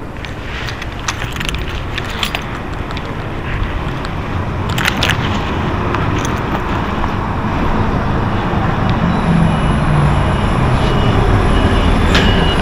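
Hino HS8J city bus's diesel engine running with road noise, growing steadily louder as the bus gets under way. Scattered sharp clicks and rattles come through in the first half.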